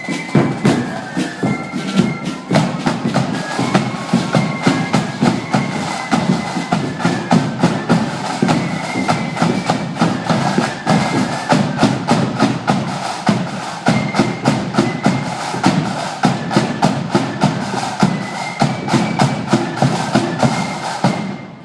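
Marching band playing a tune in the open: melody instruments over a steady beat of drums. The band stops abruptly near the end.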